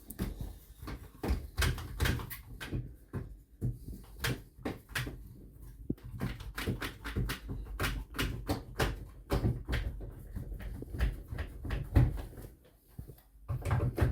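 A run of irregular knocks, clicks and thuds from clamps being fitted and an MDF board and tools being handled on a work surface.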